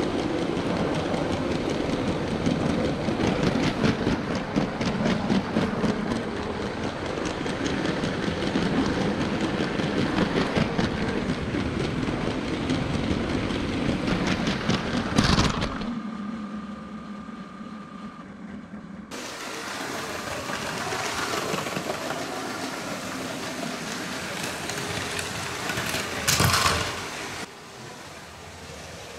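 Train running along the track with a steady rattling clatter of fine, even clicks, broken by a sharp loud bang about halfway through. The running sound resumes and ends in a second loud crash-like burst near the end.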